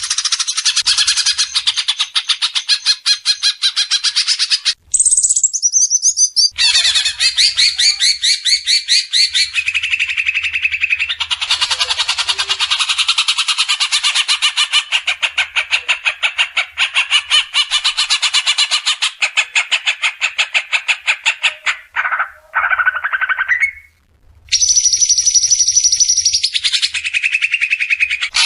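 Songbird training recording: a caged songbird's fast, dense chattering trill of rapidly repeated sharp notes, cutting off abruptly twice and resuming like a looped, edited track.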